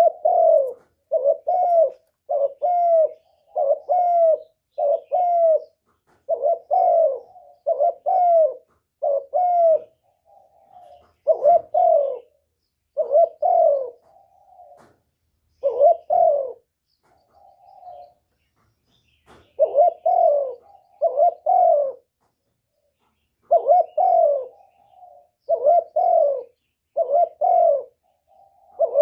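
Spotted dove cooing: short low coos repeated about once a second in runs, broken by a few short pauses and some softer notes.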